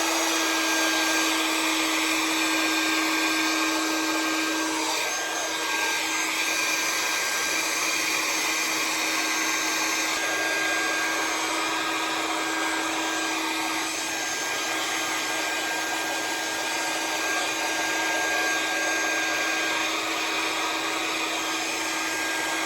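Conair handheld hair dryer with a nozzle attachment running steadily: a constant motor whine over the rush of blown air, while it dries a section of hair wound on a round brush.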